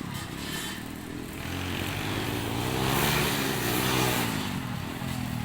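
Motocross bike engine passing by. It grows louder to a peak about halfway through, then fades, its pitch rising and then dropping.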